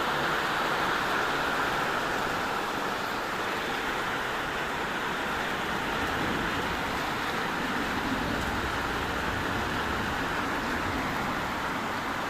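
Heavy rain pouring down, a steady dense hiss, with a low rumble building in the second half.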